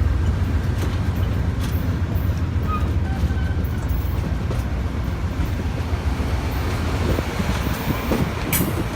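A train rolling along the track: a steady low rumble of wheels on rail with scattered clicks, easing off slightly toward the end.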